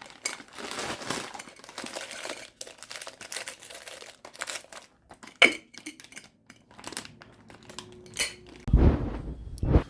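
Packaging crinkling and rustling as shopping items are handled and unpacked, with a sharp click about five seconds in and a low bump near the end.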